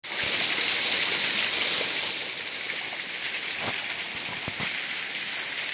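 Small mountain waterfall splashing: a steady rush of falling water.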